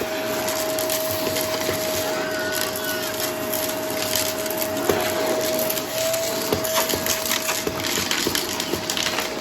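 Vacuum cleaner running with its brushroll spinning: a steady motor tone under dense crackling and clicking as debris is swept up and crunched.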